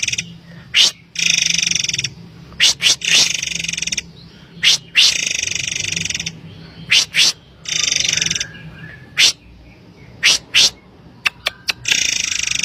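Murai air (forktail) calling: short, sharp high notes alternate with buzzy, hissing phrases of about a second each, repeated several times.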